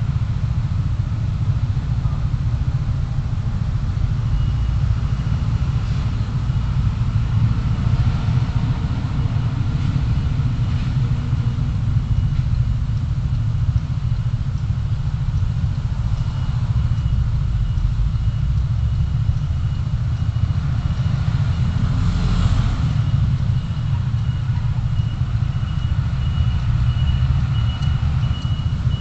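Car driving in city traffic: a steady low rumble of engine and road noise, with a thin steady high tone from a few seconds in and a brief swell of noise about two-thirds of the way through.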